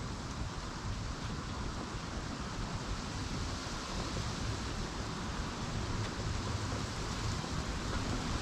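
Wind blowing across an outdoor microphone: a steady rushing hiss with uneven low buffeting.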